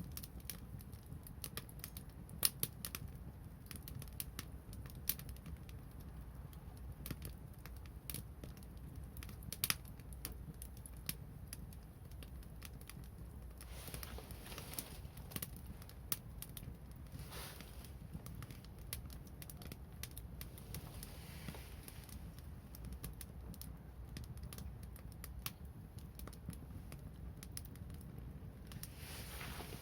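Wood bonfire crackling: irregular sharp pops and snaps over a steady low rumble, with a few soft hissing swells around the middle.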